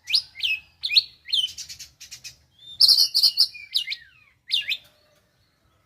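Young oriental magpie-robin singing: a series of short, sharp sweeping whistles, with a rapid chattering burst about three seconds in.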